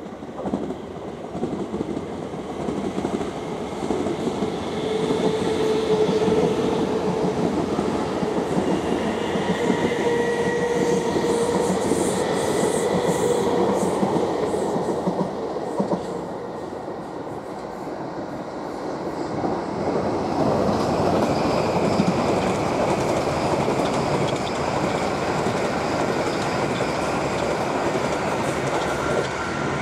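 Two South Western Railway electric multiple units passing in turn over the junction. The first runs by close below with a dense rumble, wheel clatter over the pointwork and a steady motor whine. Its sound eases about two-thirds of the way through, then the second unit's rumble builds up.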